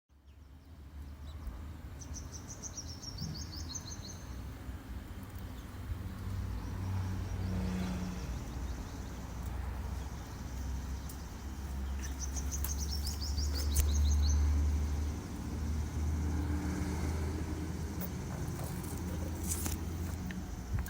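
A songbird sings twice, each time a quick run of repeated high notes that step downward, about two seconds in and again about twelve seconds in. A steady low rumble runs underneath.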